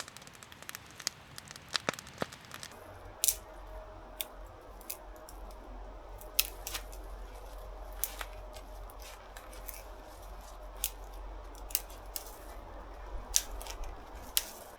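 Wood campfire crackling: irregular sharp pops and snaps, a few of them loud, over a steady hiss.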